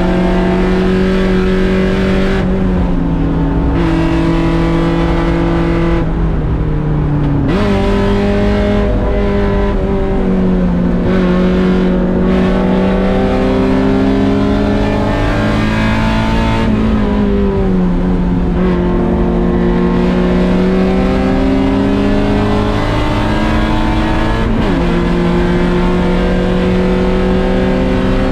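A Mazda Miata's 1.6-litre four-cylinder engine running at race pace. The engine note climbs and drops through gear changes and braking zones, lifting off the throttle about 2.5, 6 and 17 seconds in.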